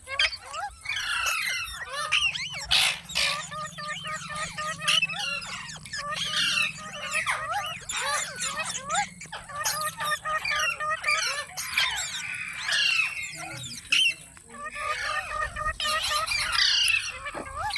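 Green parakeets chattering: a steady stream of short squawks and chirps that glide up and down in pitch, many calls close together.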